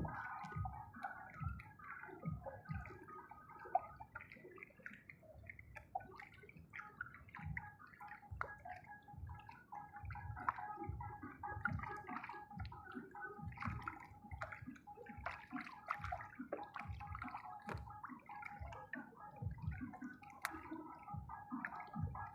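Water gurgling and sloshing in irregular splashes, with a faint steady hum in the background for the latter part.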